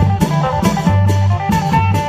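An Isan klong yao long-drum band playing an upbeat piece: steady drum and cymbal strokes under a stepping melody and a bass line.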